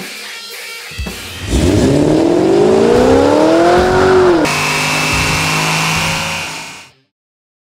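Chevrolet Camaro SS LS3 V8 accelerating hard, its revs climbing steadily for about three seconds. It then cuts suddenly to an engine held at high revs with a steady high whine, which fades out near the end. Rock music plays briefly at the start.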